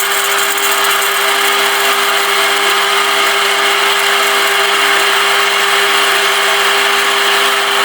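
Bandsaw running and cutting through a thick aluminium block: a steady motor hum under a constant hiss of the blade in the metal.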